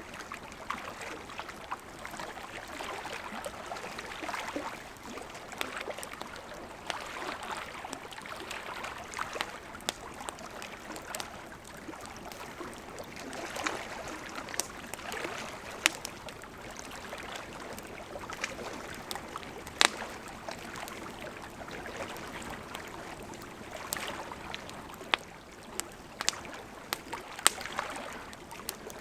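Campfire crackling, with scattered sharp pops and snaps of burning wood, the strongest about two-thirds of the way through, over the steady rush of a gently flowing river.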